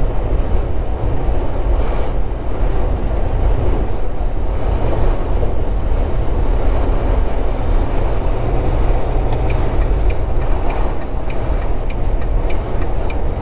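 Steady drone of a semi truck's engine and road noise, heard from inside the cab at highway speed. Faint, evenly spaced ticks come in over the last few seconds.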